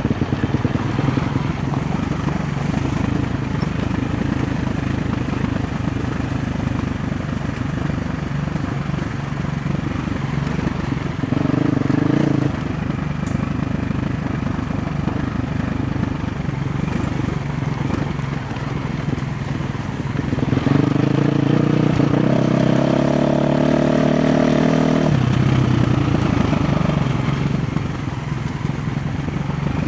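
KTM 350 XC-F's single-cylinder four-stroke engine running on rough trail, mostly at low, steady revs. A short rev-up comes a little before halfway, and a longer rise in revs in the later part ends in a sudden drop.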